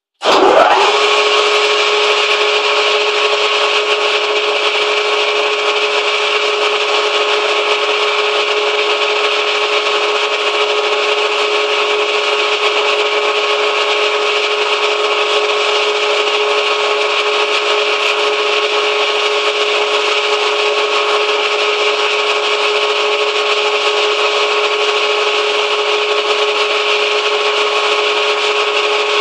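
Manual metal lathe running steadily: a constant whine with a hissing, scraping noise over it, cutting in suddenly at the start.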